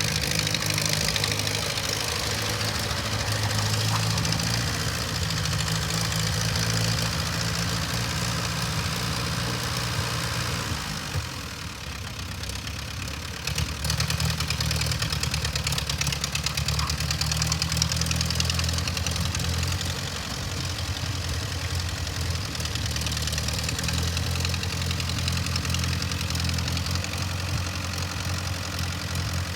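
Ford 8N tractor's four-cylinder gasoline engine running steadily at idle, its note dipping briefly near the middle and then picking up again.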